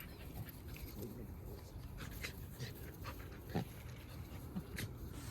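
A dog panting, with a few short clicks, the sharpest about three and a half seconds in.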